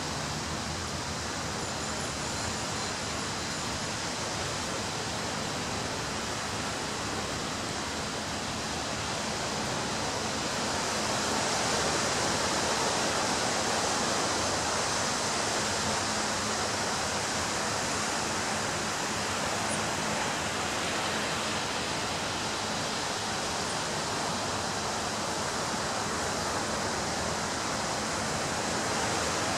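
Ocean surf breaking on a beach: a steady wash of waves that swells slowly about a third of the way through and then eases.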